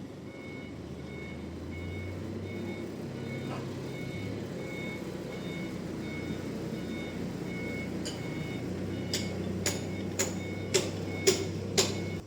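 A vehicle's reversing alarm beeping steadily over its running engine. Several sharp knocks come in the last few seconds.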